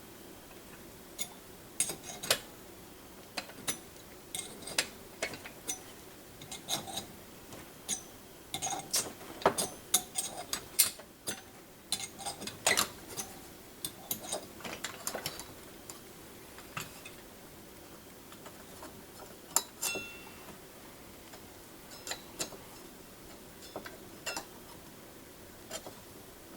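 Thread tap cutting new threads in a Corvair secondary carburetor body: irregular sharp metallic clicks and ticks, bunched closest together around the middle.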